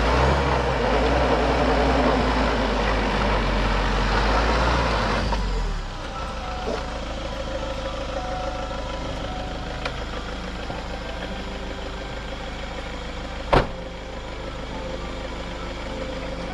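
Camper van's engine running hard under throttle while it is stuck in sand, then dropping to a quieter steady idle about six seconds in. A single sharp knock comes a few seconds later.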